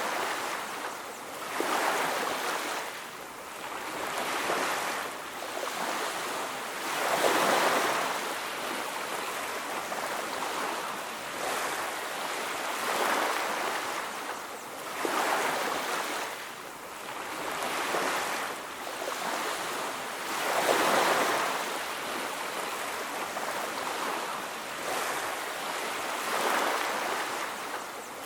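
Ocean surf: waves breaking and washing up on a beach, a swell of rushing water every two to three seconds. The biggest swells come about a quarter of the way in and again about three quarters in.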